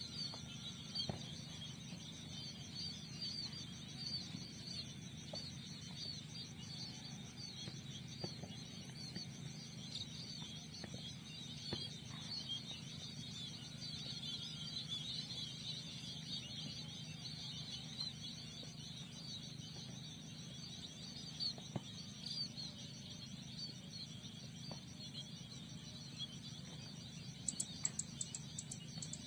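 A flock of small seed-eating rice birds (burung pipit, munias) chirping in a dense, continuous chatter, over a steady high insect trill.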